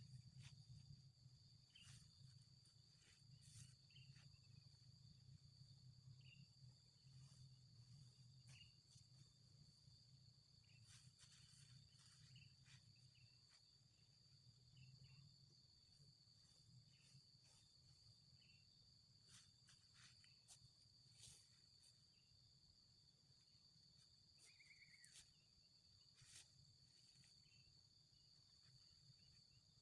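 Very faint steady high-pitched insect drone with a low hum under it, broken by scattered short faint rustles and clicks.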